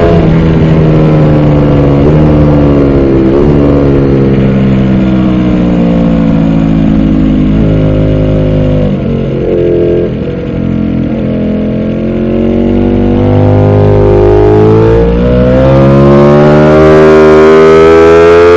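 Ducati Panigale V4 R's V4 engine at racing revs, heard from the bike itself: the engine note falls steadily as it slows for a corner, with a brief dip and blips partway through, then climbs again under hard acceleration out of the corner, with a gear change during the climb.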